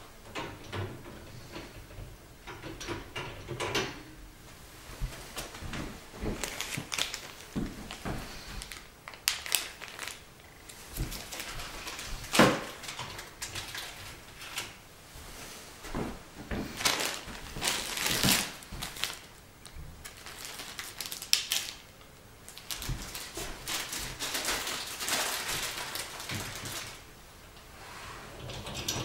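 Dishwasher racks, door and dishes being handled: irregular knocks, slides and clatters, with a sharp loud knock about twelve seconds in.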